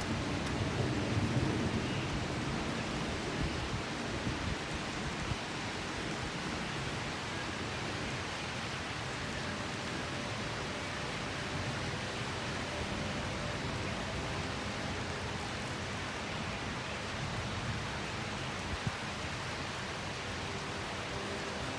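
Steady rain falling, with a low rumble over the first couple of seconds.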